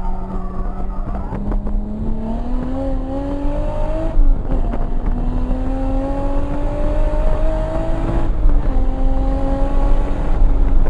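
1994 Toyota Supra's single-turbo 2JZ-GTE inline-six under full throttle on track, the engine note climbing steadily in pitch. The pitch drops briefly twice, about four and eight seconds in, at upshifts, then climbs again.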